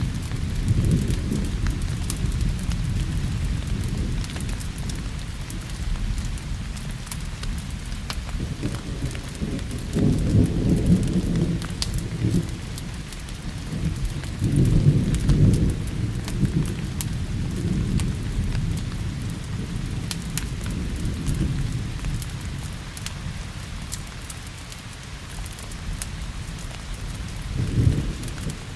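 Steady rain with low rolling thunder that swells several times, loudest about ten and fifteen seconds in and again near the end, over the scattered sharp crackles of a wood fire in a fireplace.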